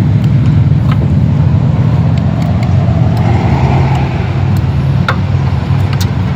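A motor vehicle engine running steadily with a loud low rumble, with a few light clicks over it.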